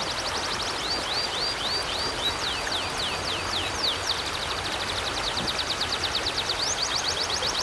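River water rushing steadily, with birds chirping in quick, unbroken series of high, pitch-sliding notes over it; the chirps come fastest in the second half.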